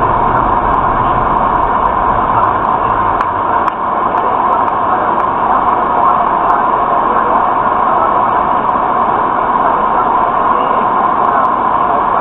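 Steady, loud road noise of a moving vehicle, picked up by a dashcam microphone that sounds muffled above the mid-range.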